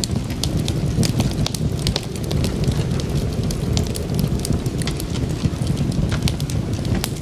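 Wood fire crackling, with frequent sharp irregular pops and snaps over a steady low rumble of burning.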